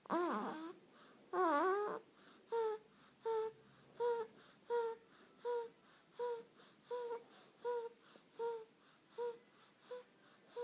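Month-old baby making two short wavering whimpers, then a long run of brief squeaky grunts, evenly spaced about one every 0.7 seconds, as he drifts off to sleep.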